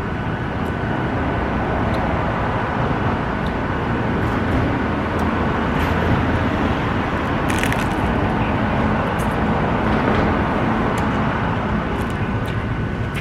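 Steady city traffic noise mixed with a small portable fan running close by, with a thin steady whine. A few short clicks, the clearest about seven and a half seconds in.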